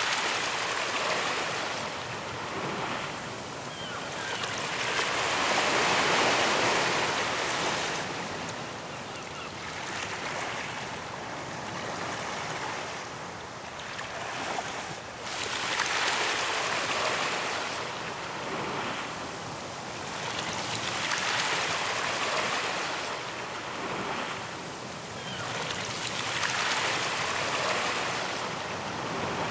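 Ocean surf on a beach: waves breaking and washing up in surges that swell and fade every few seconds, the loudest about six seconds in.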